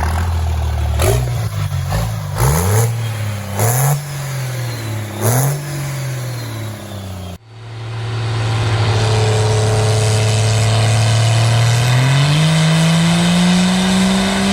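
A Cummins diesel engine in a 2006 Dodge Ram pickup, idling and then revved in four quick blips, each rising and falling. After an abrupt cut, a steady engine note runs and climbs in pitch near the end.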